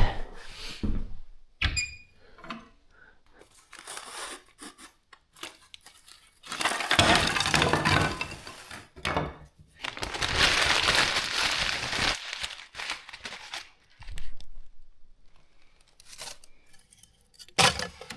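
Firewood being handled and broken up to lay a fire: cracking, tearing and rustling, with scattered knocks and two longer spells of noise in the middle.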